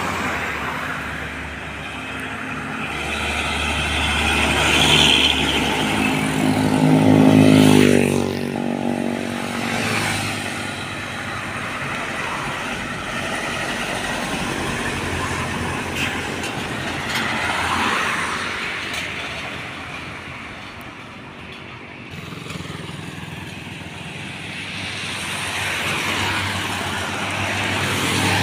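Heavy trucks and other road traffic passing by, engines swelling and fading as each one goes past. The loudest pass comes about seven seconds in, its engine note dropping as it goes by.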